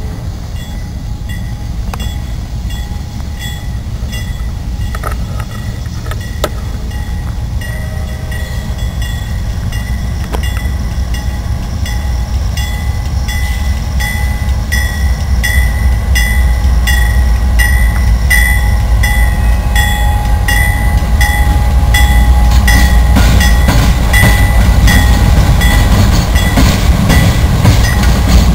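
CSX diesel freight locomotive approaching and rolling past at close range, its engine rumble growing steadily louder. A regular high-pitched ticking from the wheels on the rails runs alongside and gets stronger as it nears.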